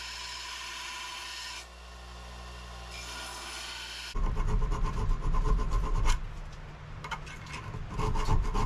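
Hand file rasping on steel, filing a forged knife blank flat. It comes in three stretches that start and stop abruptly, and the last, from about four seconds in, is louder with uneven strokes.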